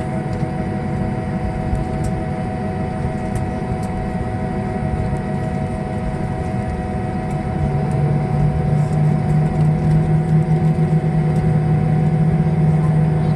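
Boeing 737-800's CFM56 turbofan engines and airflow, heard from inside the passenger cabin: a steady hum with several held tones over a low rumble. About halfway through, a stronger low drone comes in and the noise gets louder.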